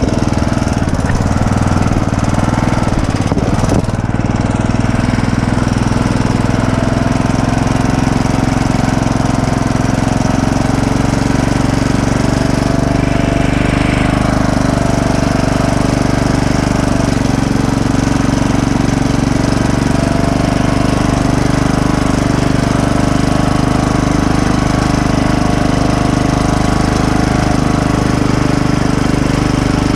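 Craftsman LT1000 lawn tractor's engine running steadily.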